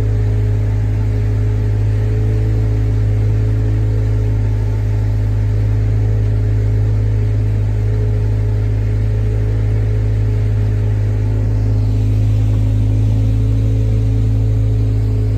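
Speedboat engine running steadily at constant speed, a loud, even low hum with a few steady tones over it and no change in pitch.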